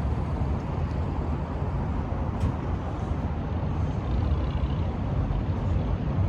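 Steady low rumble of vehicles, idling engines and traffic, with a single faint tick about two and a half seconds in.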